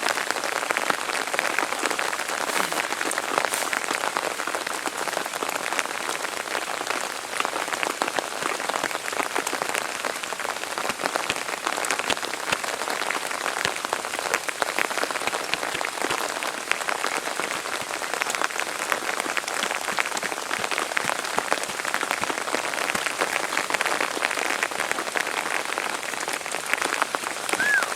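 Steady rain falling, an even hiss dotted with many small individual drop ticks, unchanging throughout.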